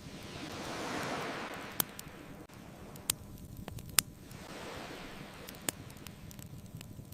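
Ocean waves washing in, one surge about a second in and another around the middle, under a bonfire crackling with a few sharp pops, the loudest near the middle.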